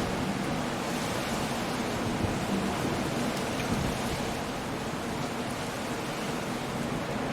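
Coastal storm: steady rain and breaking surf blending into one continuous, even noise.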